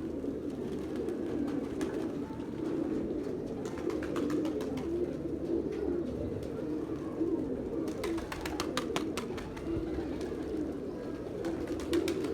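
A flock of pigeons cooing continuously, their low coos overlapping. Clusters of sharp clicks join in about eight seconds in and again near the end.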